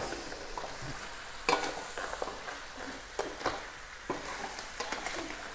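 Whole frog crabs sizzling steadily in spiced oil in a thin aluminium wok, while a metal ladle scrapes and clicks against the pan several times as the crabs are stirred and the sauce is spooned over them.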